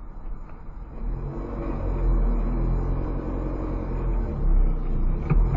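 Car engine running at high revs, heard from inside the car, swelling about a second in and staying loud with a deep rumble, as the car surges forward out of control in what is shown as a sudden unintended acceleration. A few sharp knocks come near the end as the car runs over rough ground.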